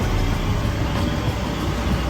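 Steady low rumble of running generators, the kind food trucks run on, with a general outdoor hubbub over it.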